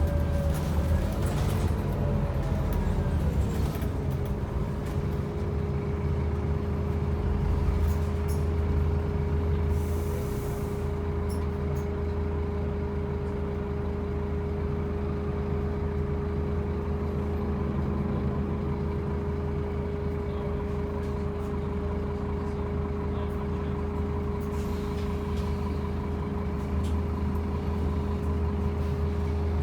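Scania N270UB OmniCity bus's diesel engine, falling in pitch over the first few seconds, then running steadily with a steady whine. A short air hiss from the air brakes comes about ten seconds in, and the drone is a little quieter after it.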